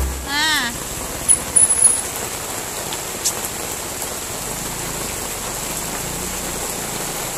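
Heavy rain pouring down steadily, an even hiss of water on the street and roofs. A few light knocks come about a second and a half in.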